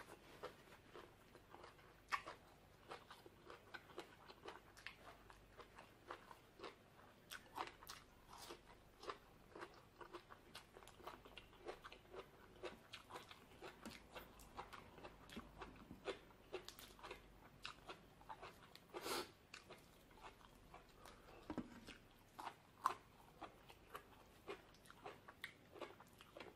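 A person chewing and biting green papaya salad close to the microphone: a quiet, steady run of short crunches and mouth clicks, a few louder than the rest, with one longer crunch about two-thirds of the way through.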